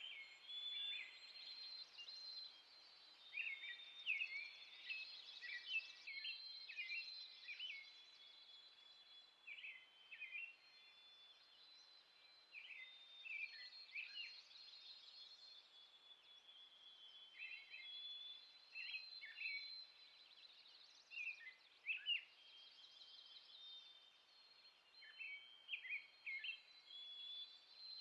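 Faint chorus of small songbirds: many short, high chirps and thin trilling notes from several birds, scattered throughout, over a soft steady background hiss.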